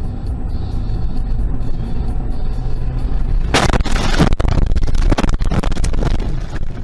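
Steady low rumble of a car driving, then about three and a half seconds in a sudden loud burst of rushing, crackling noise with sharp cracks, lasting about three seconds.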